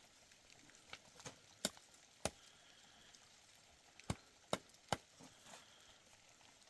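A series of sharp, irregular knocks, about five loud ones with fainter ones between.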